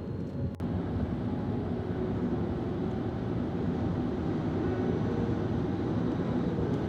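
A steady, low rushing rumble that starts after an abrupt cut about half a second in.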